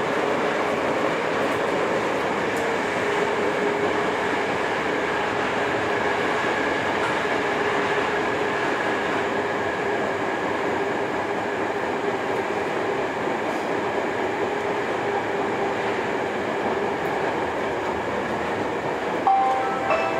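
Steady, even hum of a Hankyu 7300-series electric train standing at an underground platform, with faint held tones through it. Near the end, an electronic chime of a few clear notes begins.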